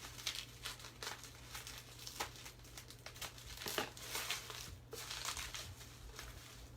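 Packing paper crinkling and rustling in irregular handfuls as items are unwrapped from a shipping box, with a brief pause about five seconds in.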